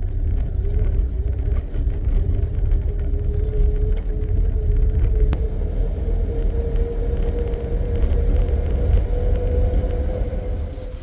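Safari jeep driving on a jungle track: the engine runs steadily with its note slowly rising, over heavy low rumble of road and wind noise on the microphone.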